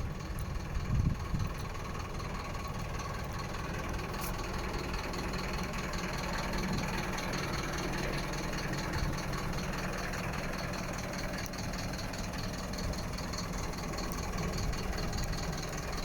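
Mercedes-Benz Atego 1222 truck's diesel engine idling steadily.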